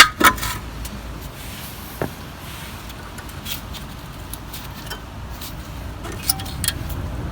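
Metal clinks and knocks of a front brake caliper and its old pads being handled: a sharp clatter right at the start, a single knock about two seconds in, then a few light clicks.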